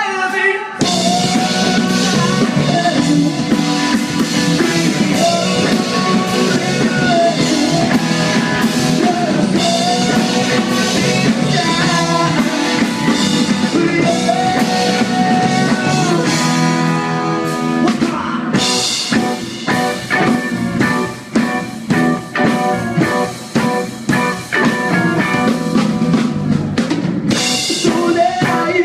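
A live rock band playing a song: drum kit and guitars, with cymbal crashes about two-thirds of the way through and again near the end.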